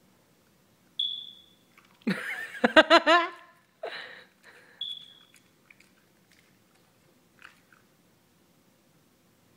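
A wavering, pitched vocal cry whose pitch wobbles up and down for about a second and a half, with a shorter one after it. Brief high squeaks come about a second in and again near five seconds.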